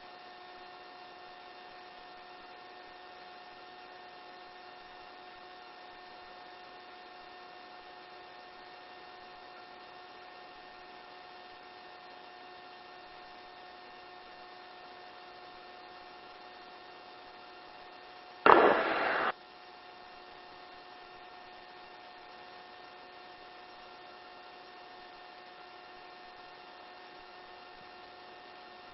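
Steady hum with several held tones on a helicopter's intercom audio feed. About two-thirds of the way in it is broken once by a loud burst of noise lasting under a second.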